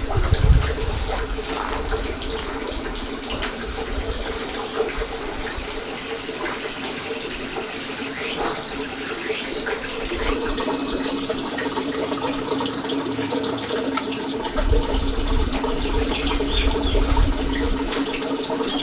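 Water running steadily, with a steady low hum underneath and a few low rumbles near the start and again late on.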